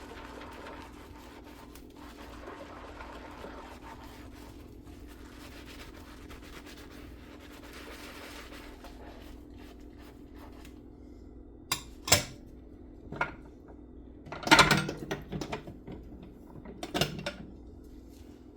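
Dishes being washed by hand in a sink: a soft, steady rubbing, then in the second half a handful of sharp clinks and clatters as dishes knock together, the loudest a quick cluster of knocks.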